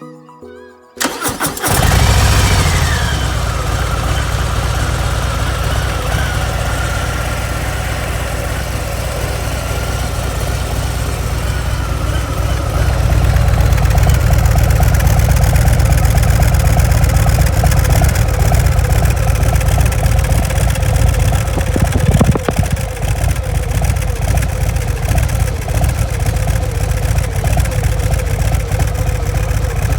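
Harley-Davidson Breakout FXBRS's Milwaukee-Eight 114 V-twin with stock mufflers being started: the starter cranks about a second in, the engine catches with a brief falling whine, then settles into a steady idle.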